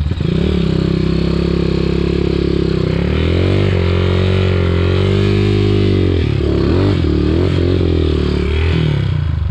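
Trail dirt bike engine, just started, running and being revved. Its pitch climbs and holds through the middle, then drops and picks up several times near the end.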